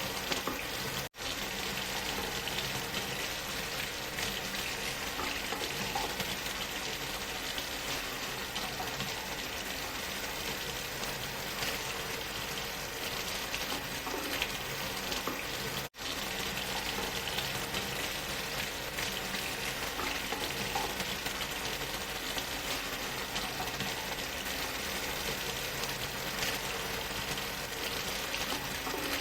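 Steady rushing of a waterfall blended with white noise, an even hiss with no changes in pitch or level. It cuts out for an instant about a second in and again about halfway through.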